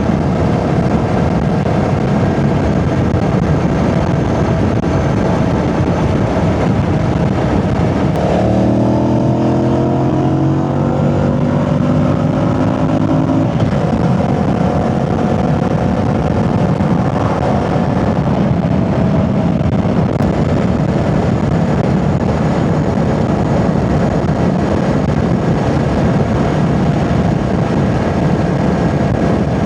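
Yamaha Tracer 7 motorcycle riding at speed, its 689 cc parallel-twin engine mostly buried under a steady rush of wind and road noise. About eight seconds in, the engine note comes through clearly for about five seconds, rising gently as the bike accelerates, then sinks back under the rush.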